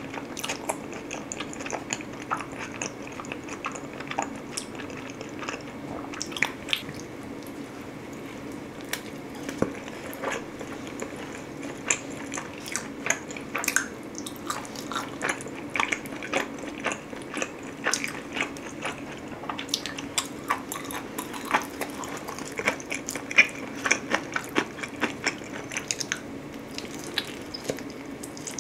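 Close-miked eating of pizza: repeated bites and chewing, with many sharp, wet mouth clicks and small crunches, busier in the second half. A steady low hum runs underneath.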